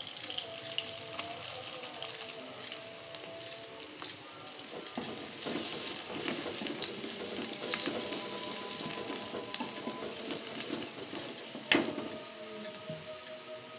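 Shallots and garlic sizzling and crackling in hot oil in an aluminium wok as a metal ladle stirs them, with one sharp knock near the end.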